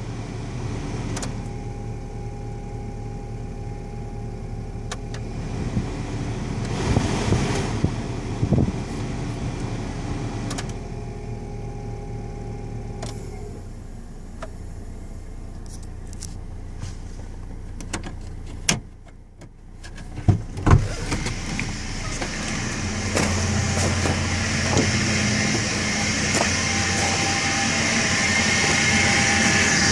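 The 1999 Chevrolet S10's 2.2L four-cylinder engine running, with a noise the owner suspects comes from a worn timing chain set. About two-thirds of the way through the sound drops away briefly, a few sharp knocks follow, and then it runs louder with more hiss.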